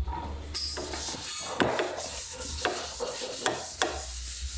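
Hand woodworking: wood being scraped and rubbed, with several sharp knocks of tool on wood.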